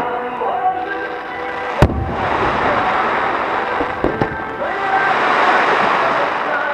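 Fireworks over background music: one shell bursts with a sharp bang about two seconds in, followed by several seconds of dense crackling hiss that swells and fades, with a few smaller pops.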